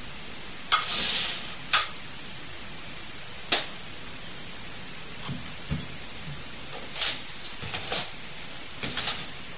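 Steady recorder hiss with several sharp clicks scattered through, the first, about a second in, followed by a brief hiss.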